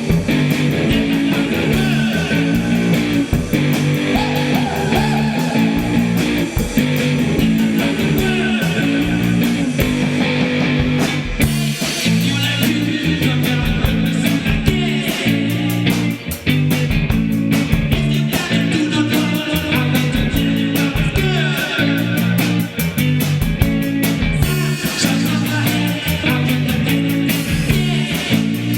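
Rock band music: electric guitar over bass and a fast, steady drum beat, with the cymbals briefly dropping out about eleven seconds in.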